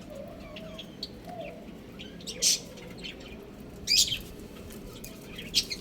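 Birds chirping: short, high chirps over a steady background, with three louder ones about 2.5, 4 and 5.5 seconds in.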